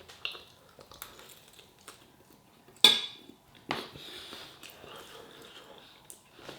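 Cutlery clinking and scraping on a dish of chow mein, with one sharp clink about three seconds in and another soon after.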